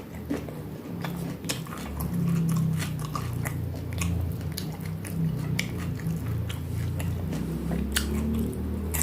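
Close-miked chewing of crunchy food, with many sharp, irregular crunches over a steady low mouth rumble.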